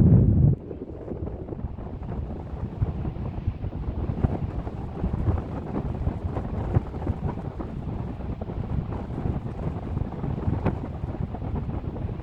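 Wind buffeting the microphone, a rumbling flutter. A heavier gust dies away about half a second in, leaving a steadier, softer rush with a few faint ticks.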